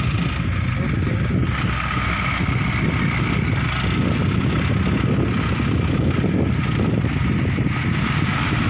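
Diesel dump truck engine running steadily with a fast, even low throb, its exhaust putting out thick smoke.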